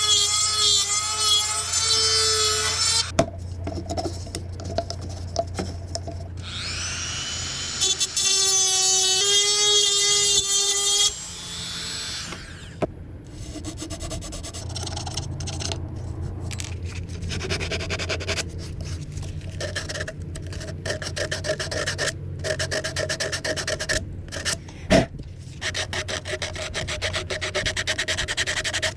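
Bamboo being worked on a running wood lathe: a tool or abrasive rubs and scrapes against the spinning piece over a steady motor hum. A high, ringing squeal sounds through the first few seconds and again from about seven to eleven seconds in.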